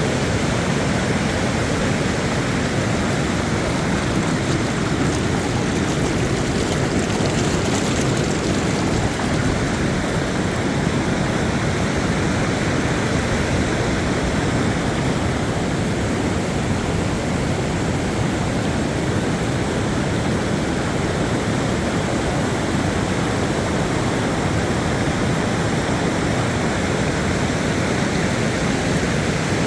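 Steady rush of fast-flowing floodwater in a swollen creek running high after heavy rain.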